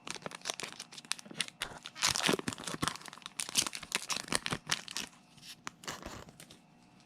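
Foil booster pack being torn open and crinkled in the hands: a run of crackles and short rips, loudest a couple of seconds in, dying away about a second before the end.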